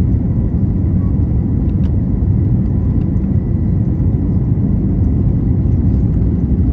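Steady low rumble of engines and rushing air inside an Airbus A321neo cabin during takeoff and climb, with a faint steady whine above it.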